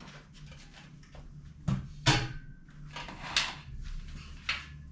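Parts of a foldable clothes drying rack knocking and clacking as it is handled and assembled: about four separate sharp clacks a second or so apart.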